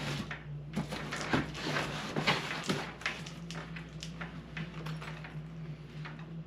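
Zipper on a small fabric tool bag being tugged and worked open, with irregular clicks, scrapes and rustles of handling. The zipper is stiff and sticking, possibly already broken.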